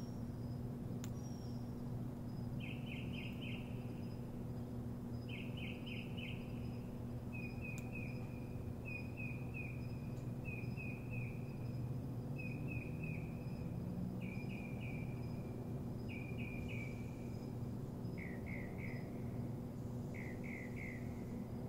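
A songbird singing short phrases of three or four quick notes, repeated every second or two, over a steady low hum.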